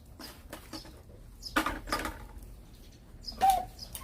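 Birds chirping in the background, with a few sharp clicks and knocks of dishes and utensils being handled; a cluster of clatter comes about a second and a half in.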